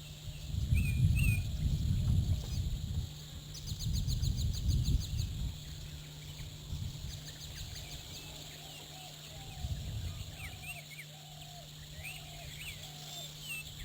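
Wild birds calling: short chirps, then a series of repeated lower calls in the second half, over a steady high-pitched hiss. There are low rumbles in the first few seconds and a quick run of ticks about four seconds in.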